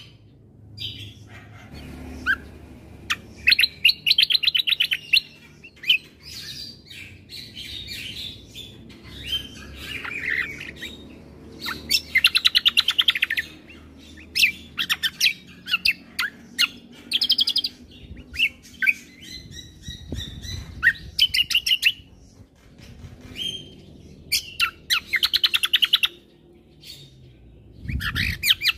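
Kecial kombo (cucak kombo) songbird singing: bursts of very rapid chattering trills alternating with varied chirped and whistled phrases, repeated every second or two, as used for a 'masteran' tutor and lure song. A couple of low thumps sound in the background.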